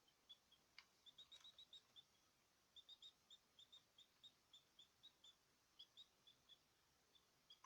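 Small cage birds chirping: quick runs of short, high chirps, with a couple of faint clicks about a second in.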